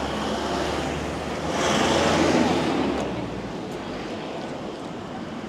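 A road vehicle passing close by: a low engine hum under tyre and road noise that swells to its loudest about two seconds in, then fades away.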